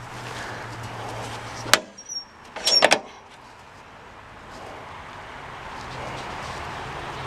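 John Deere lawn tractor running steadily, broken about two seconds in by a sharp click and then a short clatter of knocks; the running sound then builds back up.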